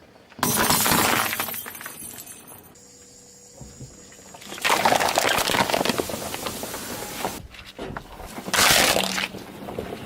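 Brittle objects crunching and cracking apart under a car's tyre, in three bursts of dense crackling: a sudden loud one at the start, a longer one in the middle and a short one near the end.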